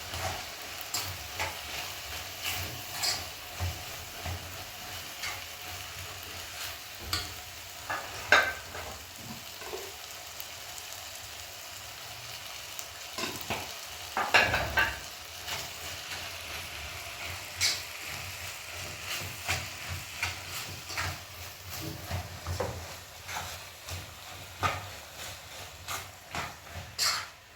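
Food sizzling in a pan while being stirred, with frequent clicks and scrapes of a utensil against the pan and a louder clatter about halfway through.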